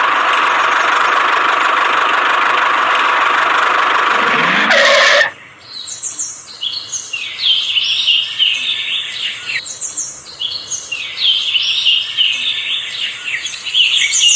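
A small motor runs steadily with a hissing whir, then cuts off abruptly about five seconds in. Birds follow, chirping and tweeting in quick, repeated calls.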